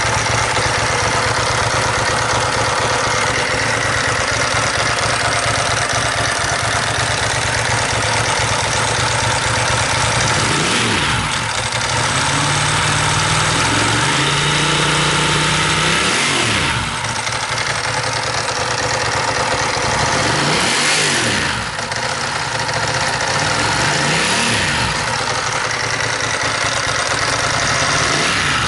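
A 2000 Ducati ST4's 916 cc desmoquattro L-twin engine runs just after being started. It idles, then is blipped about eleven seconds in and held at raised revs for a few seconds. It drops back to idle and takes two more short throttle blips near the end.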